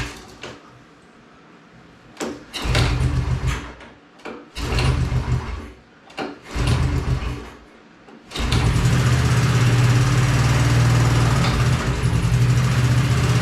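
Honda ATC185S four-stroke single-cylinder engine pull-started on its freshly rebuilt recoil starter: three short bursts of cranking and firing that die away, then on the next pull it catches and runs steadily.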